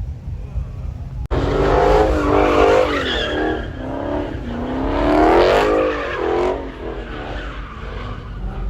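Car engine revving hard up and down while the car slides, with tires squealing. It starts abruptly about a second in, over a low rumble, and eases off near the end.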